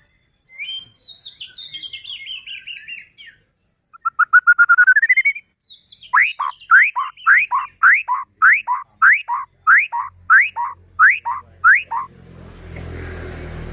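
White-rumped shama (murai batu) singing: a chattering phrase, a fast rising trill, then a run of about eleven rising whistled notes, about two a second. A steady rushing noise comes in near the end.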